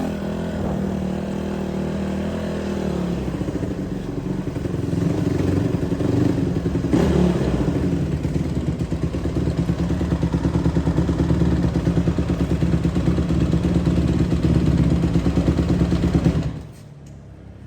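Honda CRF150R dirt bike's single-cylinder four-stroke engine running hard under riding, the revs shifting in the first few seconds and then held high with a rapid pulsing note. The engine sound falls away suddenly near the end.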